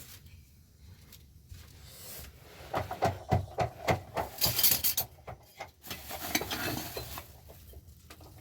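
Knocks, clatter and scraping of objects being handled. A quick run of sharp knocks about three to five seconds in, then more scraping.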